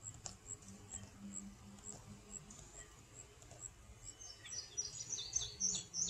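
Faint outdoor birdsong: a thin, high chirp repeating about twice a second, joined about four seconds in by a quick run of fuller song notes.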